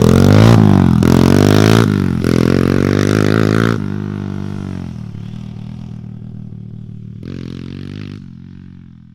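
Kawasaki KLX110L's 112 cc four-stroke single-cylinder engine being blipped several times, the pitch rising and falling with each rev, then dropping to a steady idle. One more short blip comes about seven seconds in, and the sound fades out near the end.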